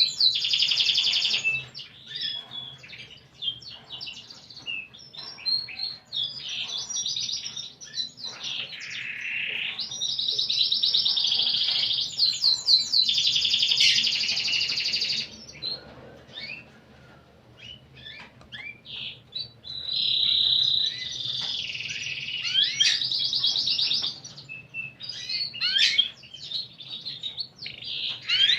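Domestic canary singing: long rolling trills and rapid chirping phrases, broken by short pauses, with a quieter, sparser stretch a little past the middle.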